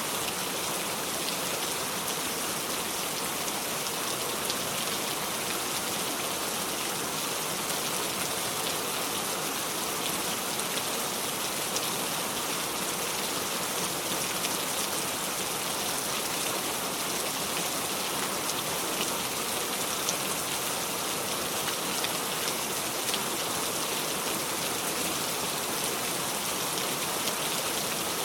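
Steady heavy rain falling, an even hiss with scattered drop patters, with no thunder.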